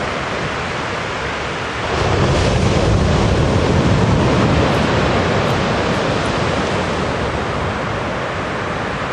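Wind buffeting the microphone: a steady rushing noise that swells in a gust about two seconds in and slowly eases.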